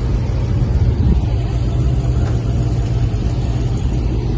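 A car's loud exhaust rumbling steadily at low revs, a deep continuous drone.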